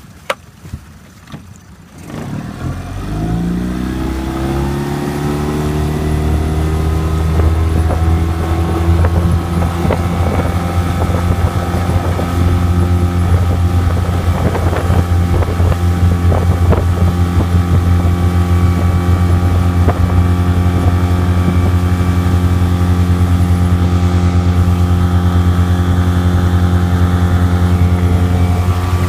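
Boat engine starting up about two seconds in, rising in pitch as it spins up, then running steadily at a constant speed.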